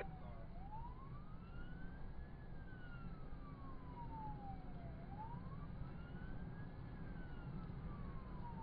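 Police car siren in wail mode, slowly rising and falling about once every four and a half seconds, over a steady low rumble of road and engine noise.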